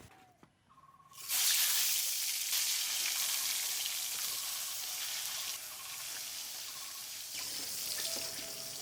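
Food or liquid going into hot oil in a cooking pot: a sudden loud sizzle starts about a second in, then eases into steady frying.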